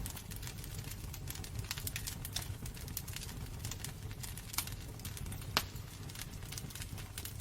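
Wood fire burning in a fireplace: a steady low rumble of flames with dense, irregular crackling and a few sharper pops, the loudest about five and a half seconds in.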